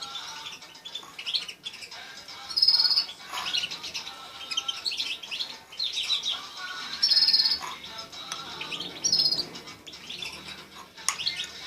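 Small cage finches chirping and singing, with a short high trill repeating every few seconds among many quick chirps.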